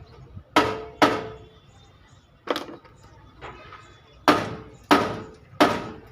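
Hammer blows on sheet-metal truck bodywork, as in panel denting. There are six loud ringing strikes at an uneven pace and one lighter tap between them.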